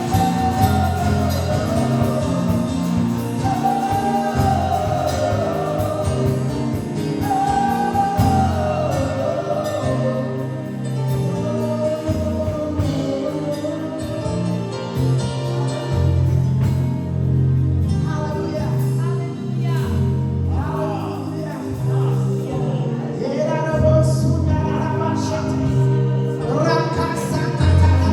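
Live gospel worship music: a singer leading a slow song over sustained bass and keyboard, with voices joining in.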